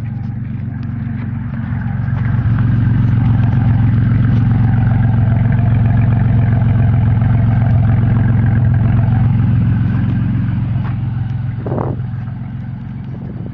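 Straight-piped V6 exhaust of a 1996 Ford Ranger running with a deep, steady drone, growing louder about two seconds in and easing off near the end. A brief higher note sounds near the end.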